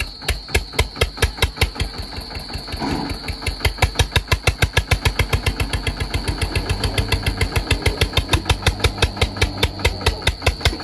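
Tractor diesel engine chugging under load with an even, heavy beat of about six thumps a second, which starts right at the beginning, over a steady high-pitched whine.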